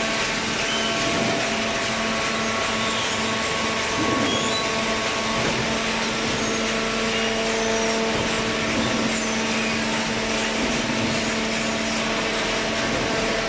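Hydraulic automatic cardboard baler running: a steady machine hum from its hydraulic power unit under a constant mechanical din.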